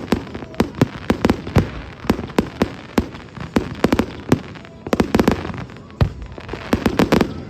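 Fireworks going off: a rapid, irregular string of sharp bangs and pops, with thicker clusters of bursts past the middle and near the end.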